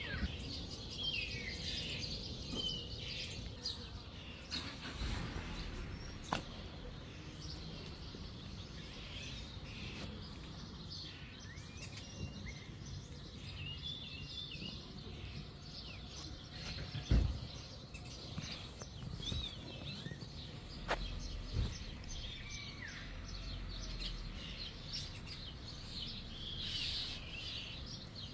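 Several small songbirds chirping and singing over a steady low outdoor rumble, with a few faint clicks and one dull thump about two-thirds of the way through.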